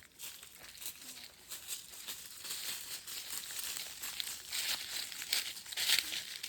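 Irregular crackling and rustling, like crinkling, getting louder over the last couple of seconds.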